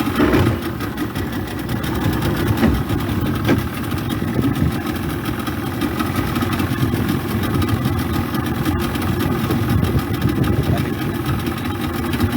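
An engine running steadily, its low rumble continuous throughout.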